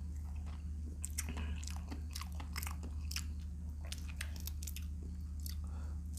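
Close-miked chewing and biting of paksiw shrimp, a run of irregular crunchy clicks, over a steady low hum.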